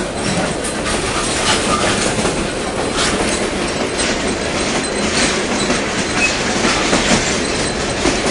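Passenger railroad car rolling along the track, a steady rumble with the clack of the wheels over rail joints every so often.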